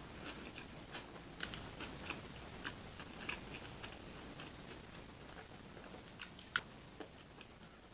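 A person chewing food, giving faint, irregular wet clicks and smacks, with a few slightly louder ones, the last about six and a half seconds in.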